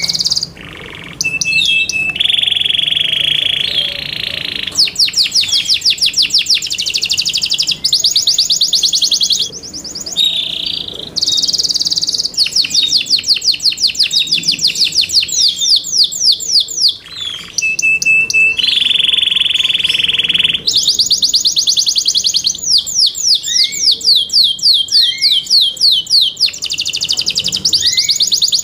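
Yorkshire canary singing a loud, continuous song of rolling trills and runs of rapid repeated notes, about eight a second, broken by short pauses between phrases.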